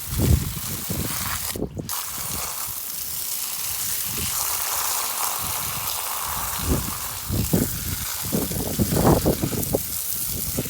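A steady hissing rush like running or spraying water, with low rumbling thumps on the microphone in the second half.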